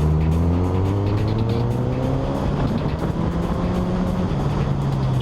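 Motorcycle engine accelerating: its pitch climbs steadily, drops briefly at a gear change, then climbs again, under heavy wind noise.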